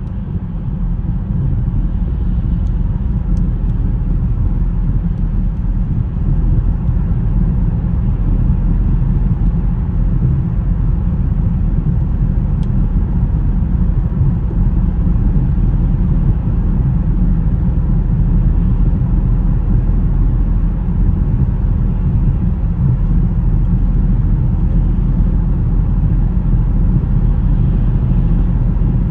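A car driving on a snowy road: a steady low rumble of engine, tyres and road noise.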